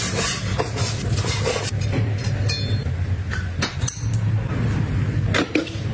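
A steady low hum with scattered short clicks and clinks, typical of utensils being handled during food preparation.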